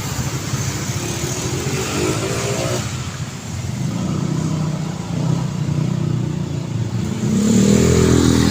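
City road traffic, with vehicle engines running and passing over a steady tyre-and-road background. One engine accelerates with a rising pitch about a second in, and a louder vehicle passes near the end.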